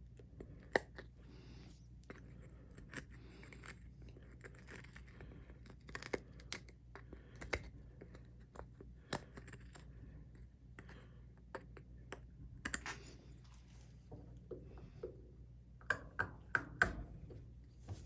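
Hand chisel scraping and cutting into a wooden plug to make a recess for a nut: irregular short scrapes and sharp clicks, with a quick cluster of clicks near the end.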